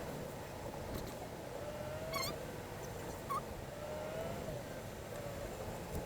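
Steady low road rumble inside a moving vehicle, with two faint drawn-out whining tones about two and four seconds in and a couple of short high chirps.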